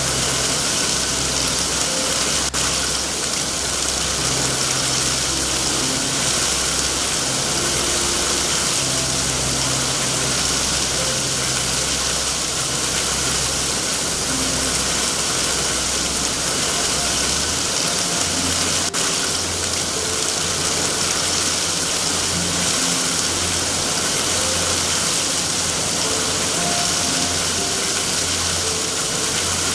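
Steady heavy rain hiss with a low rumble underneath that shifts slightly in pitch about two-thirds of the way through. There are two faint sharp clicks, a few seconds in and again just past halfway.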